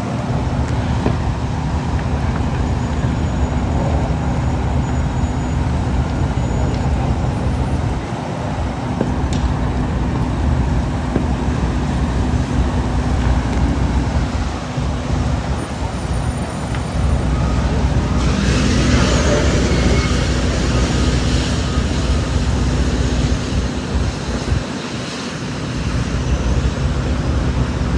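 Steady low rumble of road traffic and running vehicle engines, with an even hum under it. A louder rushing swell comes about two-thirds of the way in.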